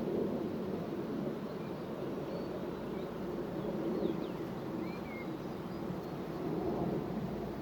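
Carniolan honeybees buzzing en masse, a steady low hum that swells and fades slightly, with a few faint high chirps over it.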